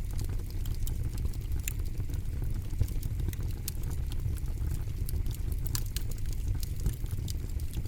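Campfire burning with frequent sharp crackles and pops over a steady low rumble of the flames.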